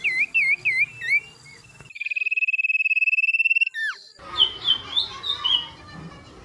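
Songbird song from a bird-training (masteran) recording: clear looping whistled notes and a steady high trill, then, after an abrupt cut about four seconds in, quick repeated sharp chirps over a background hiss.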